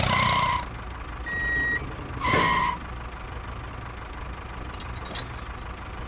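Two short electronic vehicle beeps about two seconds apart, with a thinner, higher beep between them, over a low steady engine hum.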